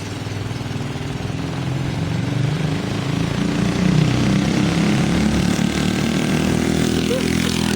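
Rebuilt Briggs & Stratton 5 hp single-cylinder engine on a mini bike running, its speed rising and falling and growing louder over the first half.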